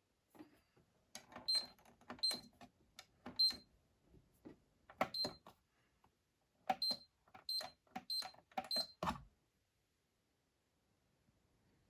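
Controls of a Privileg Sensation 952 S top-loading washing machine being operated: a run of clicks, most with a short high electronic beep, irregular over about nine seconds and then stopping.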